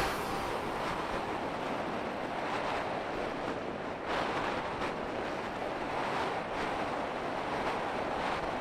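Strong wind rushing over the microphone, a steady noise that swells and eases slightly, with no engine or tone in it.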